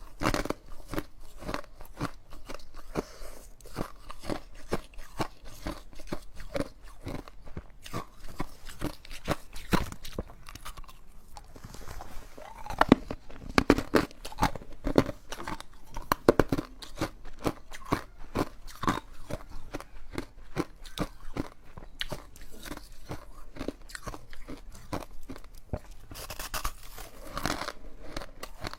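Ice being bitten and chewed close to the microphone: a steady run of sharp, irregular crunches and crackles, louder for a few seconds around the middle.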